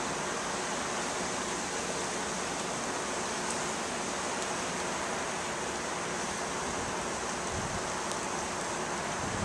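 Steady, even rushing hiss of outdoor ambience as a storm moves in, with no separate events standing out.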